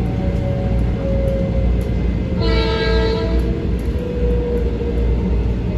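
Steady rumble of a Metro-North M7 electric train heard from inside the car, with a motor tone sliding slowly lower as it slows. About two and a half seconds in, a train horn sounds one blast lasting about a second and a half.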